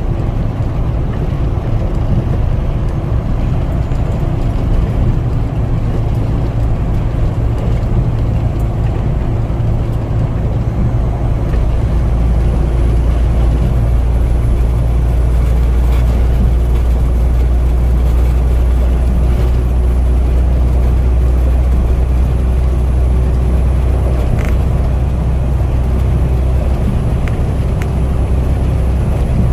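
Truck engine and road noise heard from inside the cab while driving: a steady low drone that grows heavier about twelve seconds in.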